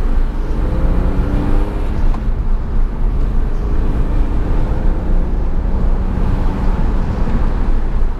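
Porsche 911 (997) Carrera's naturally aspirated flat-six heard from inside the car under acceleration, climbing in pitch, dropping at a gear change and climbing again, over steady road and tyre noise.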